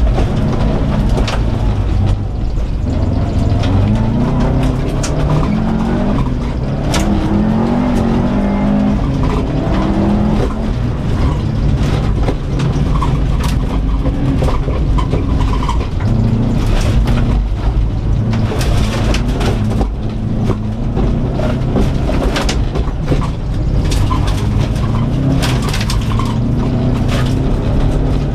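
A 2004 Subaru Impreza WRX STI's turbocharged flat-four engine, heard inside the stripped cabin, revving up and falling back again and again as the car is driven hard on a dirt course. Repeated sharp knocks and pings sound over it, more of them in the second half.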